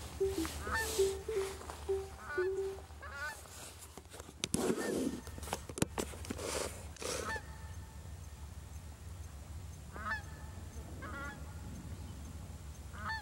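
Birds calling over calm water: short, repeated calls, several in the first few seconds and a few more near the end, with a few soft rushing swells in between.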